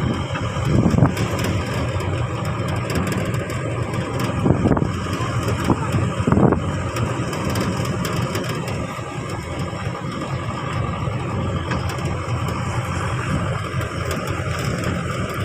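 Motor vehicle engine running steadily with road noise, swelling briefly louder a few times.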